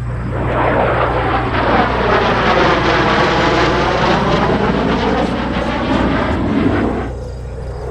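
F-16 fighter jet's engine passing the listener, swelling about half a second in, with a sweeping tone that falls and then rises as the jet goes by, and easing off around seven seconds in.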